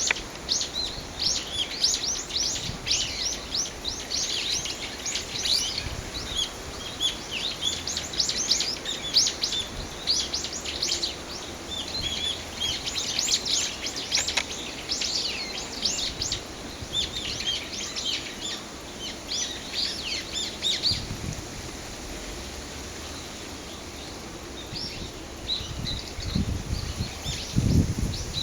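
Small birds chirping, many short high calls overlapping in a dense run that thins out after about twenty seconds. A few low thumps near the end.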